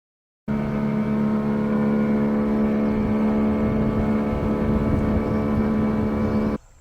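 An engine running at a steady speed with an even droning note. It cuts in abruptly about half a second in and cuts off abruptly shortly before the end.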